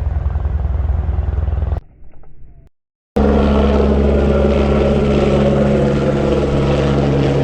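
Helicopter hovering close overhead while dumping a load, its rotor and turbine engine running with a steady, even drone. The sound breaks off for about a second around two seconds in, then comes back louder and steady.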